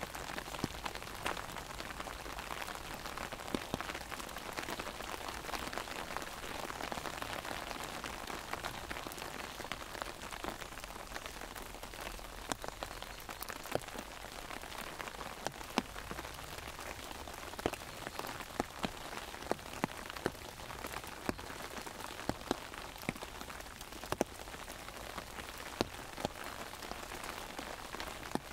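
Steady rain falling, with frequent sharp taps of larger drops hitting an umbrella overhead.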